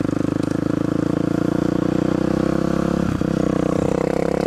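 Supermoto dirt bike engine running under throttle as it is ridden, with a fast, even pulsing; the engine note lifts a little about three seconds in.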